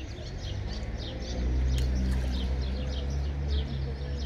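Small birds chirping over and over in quick, short calls, over a low steady hum that grows louder about a second and a half in.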